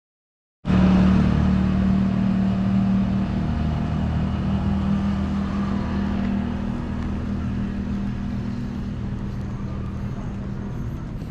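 An engine running steadily at an even speed, cutting in suddenly about half a second in and slowly getting quieter.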